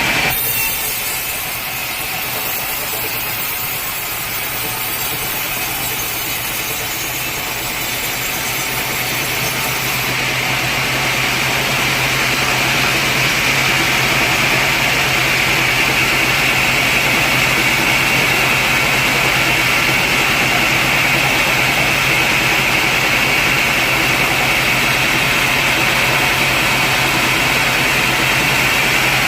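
Sawmill saw and its machinery running steadily while sawing a large teak log. About ten seconds in the sound grows louder and a high steady whine comes up.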